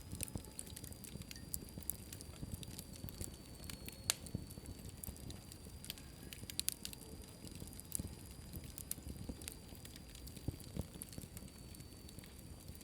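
Fire crackling in a fireplace: irregular snaps and pops over a low steady rumble of flames, with one sharper pop about four seconds in.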